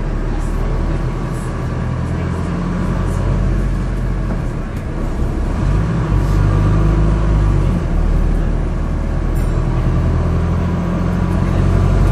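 Wright StreetDeck double-decker bus's Mercedes OM934 four-cylinder diesel engine running under way, heard from on board over road and cabin noise. The engine note swells and eases in turns as the bus pulls and backs off.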